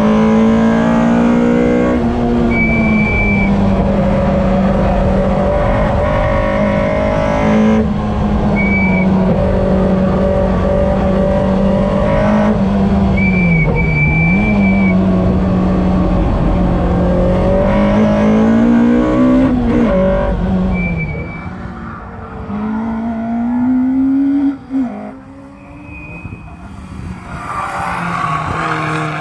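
A car's engine heard from inside the cabin while lapping a race circuit under hard driving. Its note holds mostly steady, dips and climbs again through the corners, and is broken a few times by short high tyre squeals. Near the end the sound changes to a car driving past on the track.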